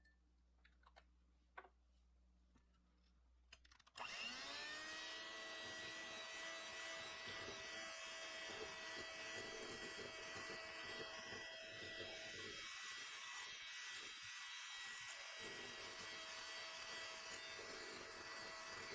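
Electric mixer switched on about four seconds in, its motor running steadily with a constant whine; a few faint clicks come before it starts.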